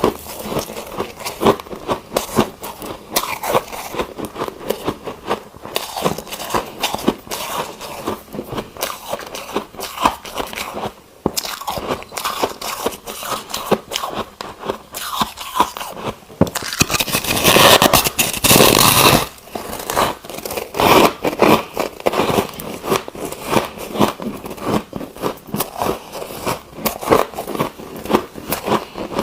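Ice being bitten and chewed close to the microphone: a dense, irregular run of crunches and cracks, with a louder, continuous grinding crunch lasting about two seconds past the middle.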